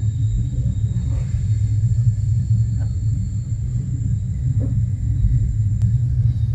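VR sleeper train running along the line: a steady low rumble, with a thin steady high whine above it and a few faint clicks.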